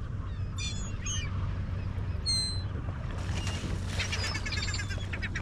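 Seagulls calling: several short, high cries over a steady low background rumble.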